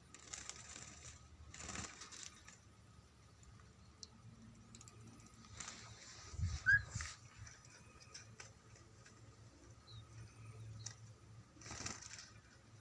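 Asian pied starling bathing: four short bursts of splashing and wing-fluttering, with one brief chirp about seven seconds in.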